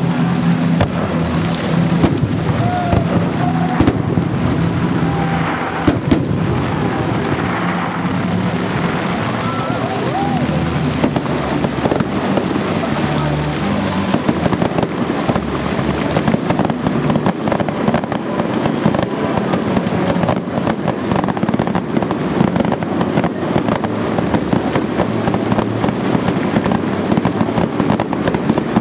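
Festive fireworks salute: repeated bangs and explosions that grow into dense crackling over the second half, with a crowd of spectators talking.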